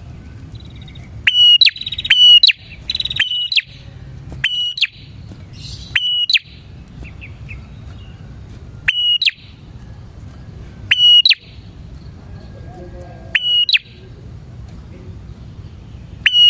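Prinia (prenjak) calling vigorously: about nine loud, sharp, short notes, one every one to two seconds, with softer chattering between them. A steady low hum runs underneath.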